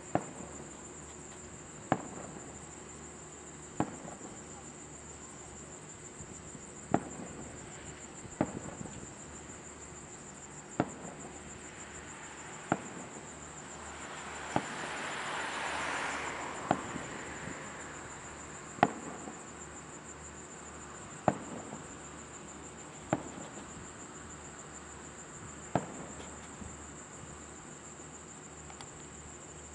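Aerial fireworks shells bursting, about thirteen sharp booms roughly two seconds apart, with a hissing swell rising and fading around the middle. Insects keep up a steady high chirring underneath.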